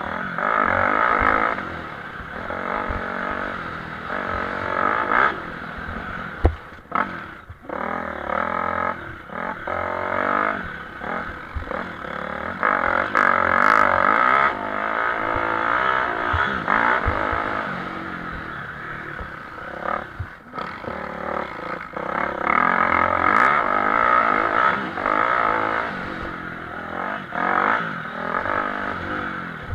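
Motocross bikes racing, their engines revving hard and dropping off over and over as they accelerate and brake around the track.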